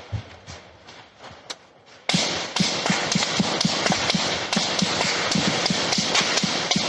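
Rapid footsteps, about four a second, begin suddenly about two seconds in over a loud rushing noise, as of someone running with the microphone on them. Before that there are only a few faint clicks.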